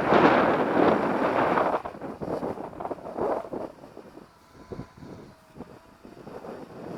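Strong wind buffeting the microphone, heaviest in the first two seconds and then coming in weaker gusts. In the lull that follows, a faint steady whine is heard, fitting a small quadcopter's propellers hovering high up.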